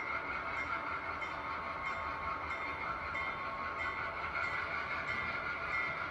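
HO scale model diesel locomotive's sound decoder playing a steady diesel engine sound as the train starts to move off.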